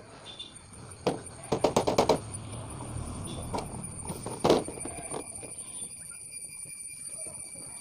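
Sharp knocks and metal clinks from tools working on a two-stroke chainsaw's crankcase while it is split apart: a quick run of knocks about a second and a half in and a single louder one about four and a half seconds in, over a steady high-pitched whine.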